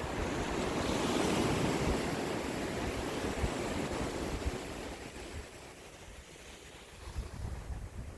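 Sea waves breaking and washing ashore: one surge peaks about a second in and slowly fades, and a smaller wash comes near the end. Low gusts of wind buffet the microphone.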